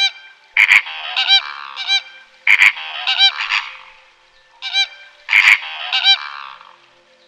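An animal calling over and over, with loud pitched calls coming in clusters of two or three.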